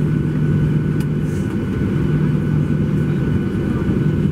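Steady cabin noise of a Boeing 737-800 with CFM56-7B turbofan engines, heard from a window seat: an even, loud low drone with a constant hum and a faint high steady tone.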